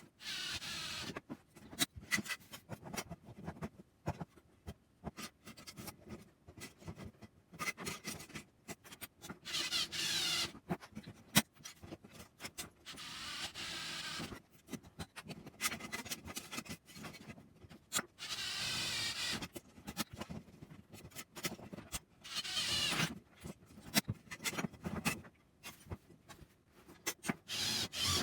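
Hand work on small metal parts: many sharp clicks and knocks, with repeated bursts of scraping or rubbing lasting a second or two each.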